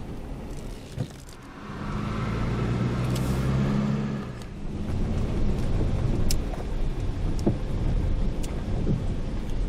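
A vehicle engine running steadily, its low hum shifting in pitch about five seconds in as the vehicle changes speed.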